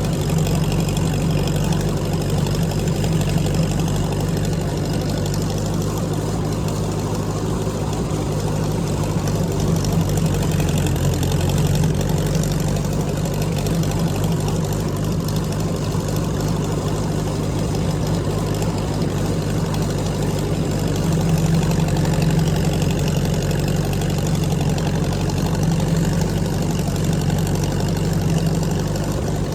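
Tractor engine running steadily at a constant speed, a continuous low hum.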